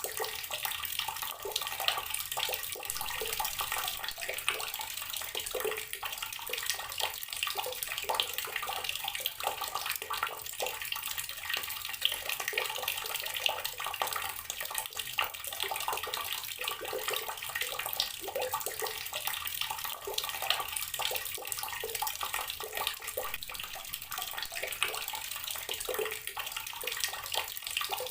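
Water tap running steadily, the stream splashing and spattering onto a hard surface below.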